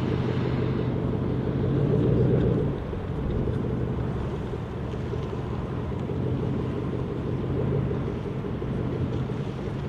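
Pickup truck engine idling with a low, steady rumble, swelling a little about two seconds in and settling back down.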